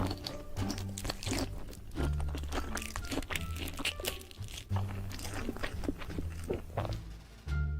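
Close-miked crunchy chewing and biting, many sharp crunches in quick succession, over background music with a repeating bass line.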